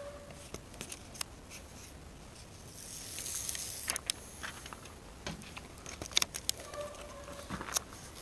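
Faint clicks and a soft rustle of a sticker being handled and put onto a pickup truck's tailgate, with the rustle strongest about three to four seconds in.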